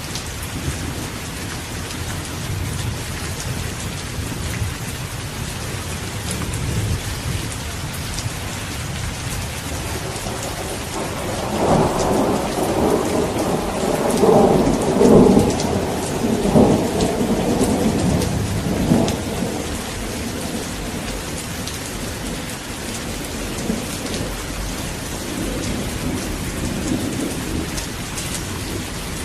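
Steady rain falling, with a long roll of thunder that builds about a third of the way in, crackles and rumbles at its loudest through the middle, and fades out about two-thirds of the way through.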